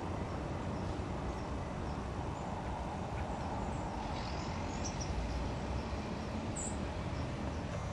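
Steady outdoor noise with a rumbly low end, and a few faint, short, high bird chirps in the middle and one near the end.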